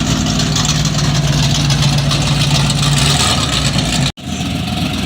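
Classic car engine running loudly with a steady low drone, the sound cutting out for an instant about four seconds in before the engine noise resumes.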